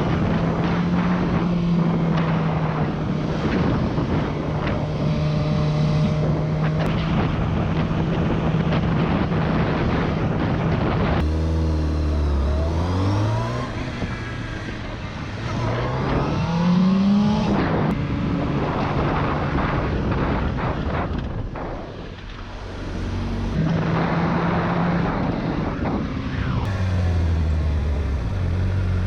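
Motorcycle engines on the road: a steady engine note for the first ten seconds or so, then revving with pitch rising and falling through gear changes. The sound changes abruptly several times along the way.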